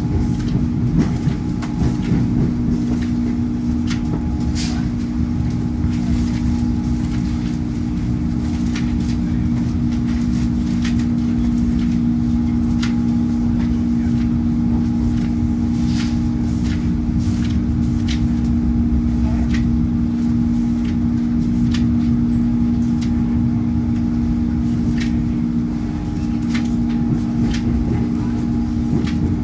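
PESA Elf electric multiple unit heard from inside the carriage while running at speed: a steady rumble from the running gear, a hum with two held low tones, and many scattered sharp clicks from the wheels crossing rail joints and points.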